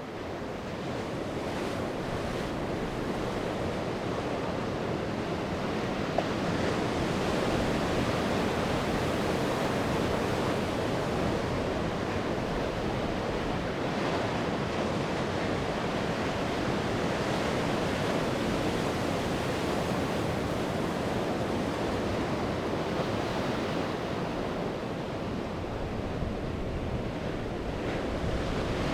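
Sea waves breaking and washing on the shore in a steady, continuous surf that swells and eases slowly, with wind blowing across the microphone.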